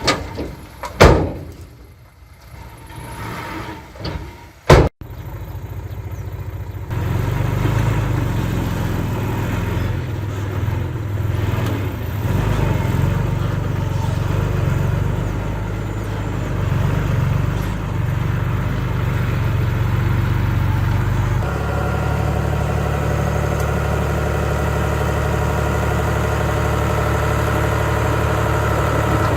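Heavy earthmoving machinery's diesel engine running steadily, after a few sharp loud knocks in the first seconds. About two-thirds of the way through, the engine note changes abruptly to a different steady one.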